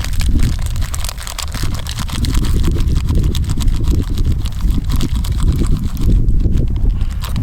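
Campfire crackling with dense irregular snaps, under a steady low rumble of wind on the microphone.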